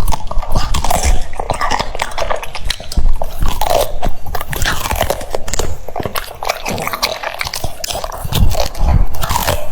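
French bulldog chewing cucumber, with many irregular crunching bites.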